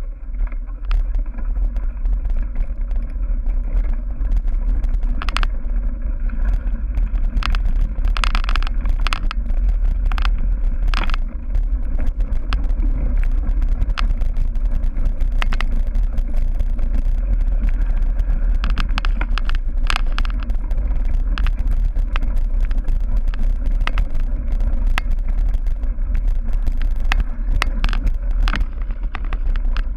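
Cyclocross bike ridden hard over a bumpy grass and dirt course: a continuous low rumble of ride vibration, with frequent sharp rattles and clacks as the bike hits bumps.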